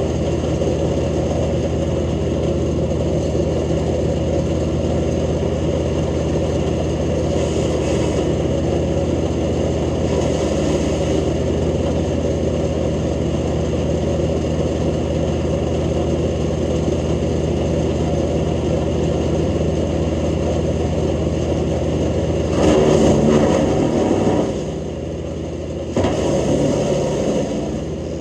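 Jansen GTS-1500 wood chipper running steadily at speed, chipping branches fed through it. There are four surges of loud shredding noise, the two loudest near the end, where the engine comes under load.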